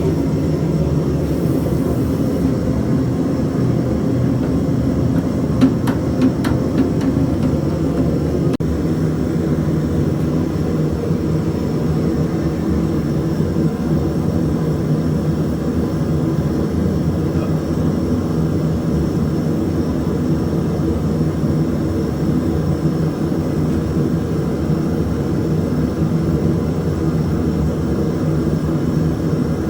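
A forge running with a steady, even rushing noise that does not change, with a few light clicks about six seconds in.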